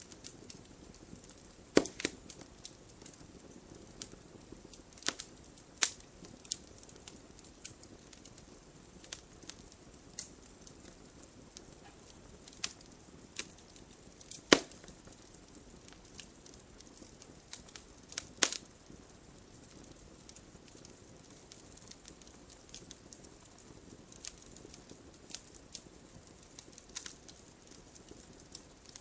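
Wood fire crackling: a soft steady hiss broken by irregular sharp pops and snaps, a few of them much louder than the rest.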